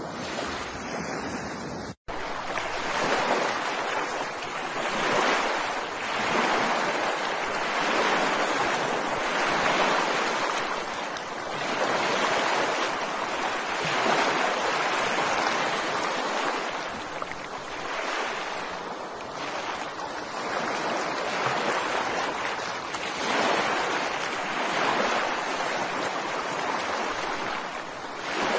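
Ocean surf: waves washing in and drawing back in repeated swells, the hiss rising and falling every couple of seconds. The sound cuts out for an instant about two seconds in, then resumes.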